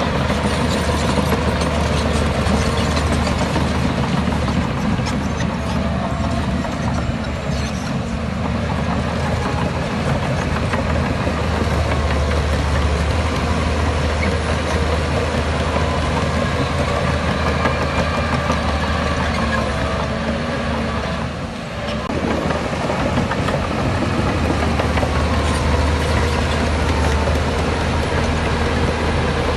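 Heavy diesel engine of earthmoving machinery running steadily with a deep low drone, dipping briefly about three-quarters of the way through before picking up again.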